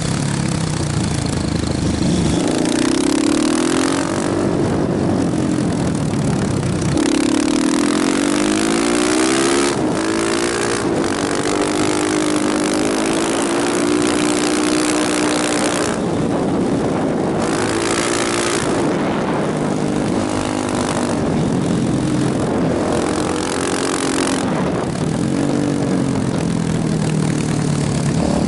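KTM motorcycle engine being ridden hard: it revs up through the gears, the pitch climbing on each pull and dropping off at the shifts, over a steady rush of wind noise.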